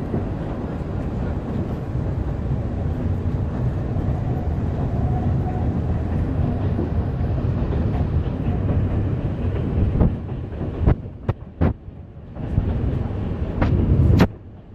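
Alishan Forest Railway narrow-gauge train running, a steady low rumble of the moving train. About ten seconds in the rumble eases and several sharp clicks come through, then the running sound picks up again before cutting off suddenly near the end.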